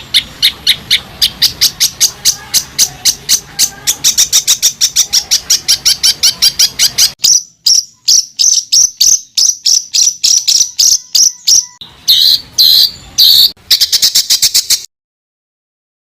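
Recorded songbird song of the rapid-fire 'tembakan' kind used to tutor competition birds: a fast run of sharp, high repeated notes, about six a second, for some seven seconds. After a short break come slower spaced notes, then a few fuller phrases, and the song cuts off about fifteen seconds in.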